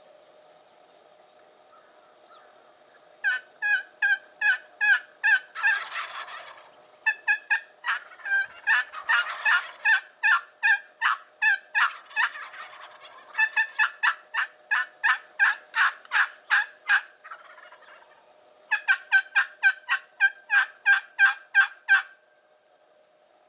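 Wild turkey calling: four long runs of evenly spaced yelps, about three a second.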